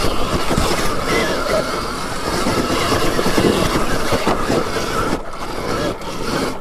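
Dirt bike being ridden over rough, rocky ground, heard from on board: a loud, steady rush of noise with rattling through it, easing briefly a little after five seconds in.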